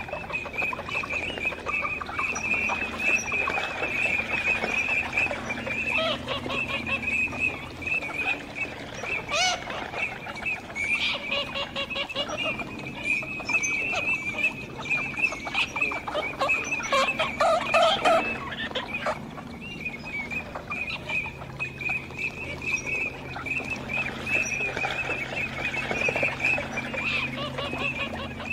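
Teal ducks, common teal and garganey, calling: a dense, unbroken high chatter of many calls, busier and louder around ten and again around seventeen seconds in.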